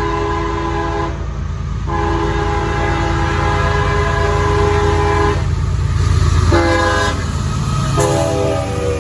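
CSX freight locomotive's multi-chime air horn blowing the grade-crossing signal over the diesel engine's steady rumble. The end of one blast about a second in is followed by a long blast, a short blast, and another blast starting near the end.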